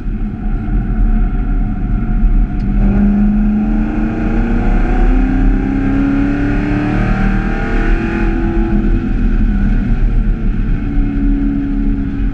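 Camaro ZL1's supercharged V8 heard from inside the cabin, accelerating hard: the engine note climbs steadily for about five seconds, then falls back, over a constant deep rumble.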